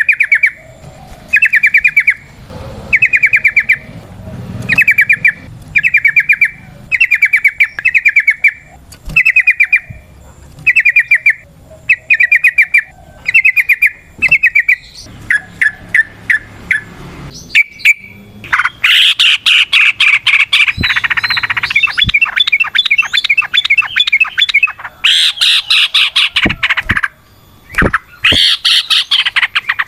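Yellow-vented bulbul (trucukan) singing loudly. At first it repeats short bubbling phrases about once a second. From a little past halfway it breaks into a dense, rapid, almost unbroken chattering song, with a couple of short pauses.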